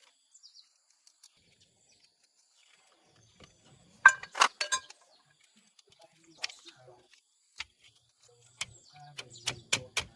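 Irregular sharp knocks and clicks, with a loud cluster about four seconds in and a quicker run of knocks near the end.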